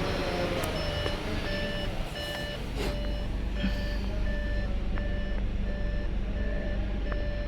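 A vehicle's reversing warning beeps repeating evenly, a little more than once a second, over a steady low vehicle rumble.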